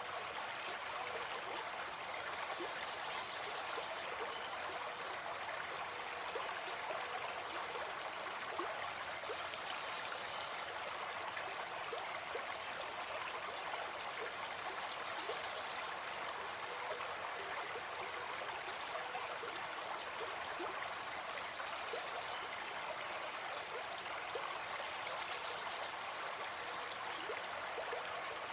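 Gentle forest stream flowing, a steady even rush of water.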